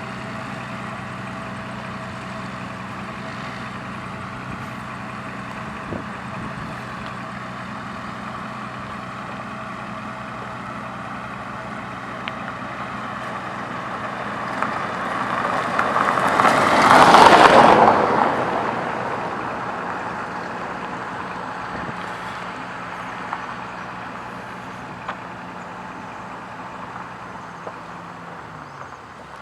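Road roller's diesel engine running steadily at the paving site. A vehicle passes close by, swelling to its loudest about two-thirds of the way through and then fading. The engine hum stops near the end.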